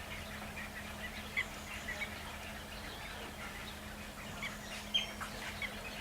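Birds calling: many short, scattered chirps and calls, the sharpest about a second and a half in and again about five seconds in, over a low steady hum.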